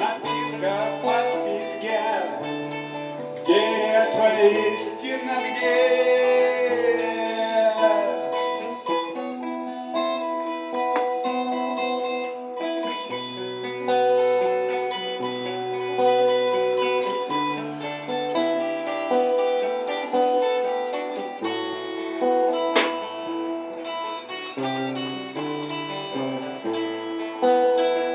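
Music: acoustic guitar picking out notes over a separate line of low bass notes.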